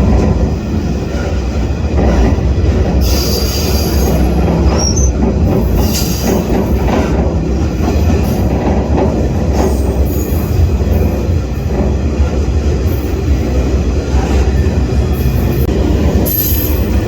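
Freight train rolling, heard from aboard a car: a steady heavy rumble of wheels on rail, with brief high-pitched wheel squeals now and then.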